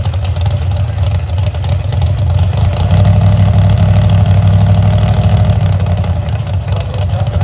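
A loud engine running at a steady low pitch. It grows louder from about three seconds in and eases back about two and a half seconds later.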